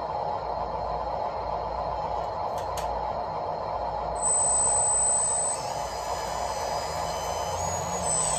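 Electric drive motors and gearboxes of radio-controlled construction models whirring steadily. About four seconds in, a high-pitched whine joins and the sound gets louder, the whine then shifting pitch in steps.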